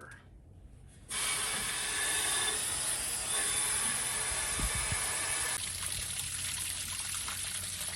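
Water rushing steadily as a car's radiator and cooling system are flushed with clean water after the antifreeze has been drained. It starts suddenly about a second in and eases a little near the end.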